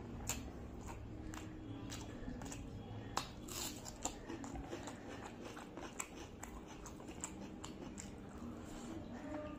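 Close-up eating sounds: chewing mouthfuls of rice and boal fish curry eaten by hand, with sharp crisp crunches from biting a raw onion slice. The loudest crunch comes about three seconds in.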